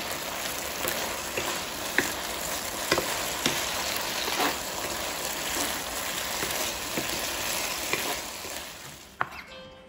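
Chicken wings and peanuts sizzling in sauce in a nonstick wok, stirred with a wooden spatula that scrapes and knocks against the pan now and then. The sizzling stops near the end.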